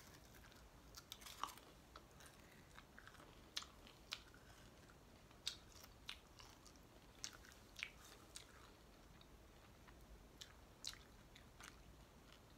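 A person chewing a mouthful of sweet honey Sriracha chicken. The sound is faint: irregular wet mouth clicks and smacks, about one or two a second.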